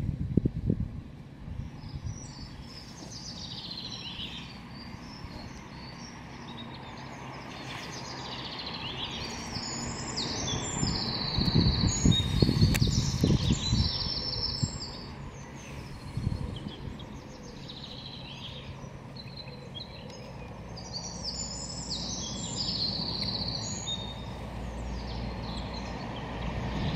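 Songbirds singing and calling in short repeated phrases throughout, over a steady outdoor background. There are bursts of low rumbling near the start and a louder stretch about halfway through.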